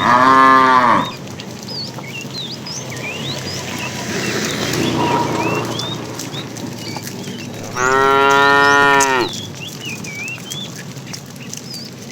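Cattle mooing: two loud, drawn-out moos about seven seconds apart, with a fainter moo between them. Short, high chirps sound throughout.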